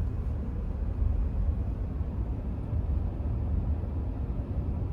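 Steady low rumble of a moving car heard from inside the cabin, with road and tyre noise and no distinct events.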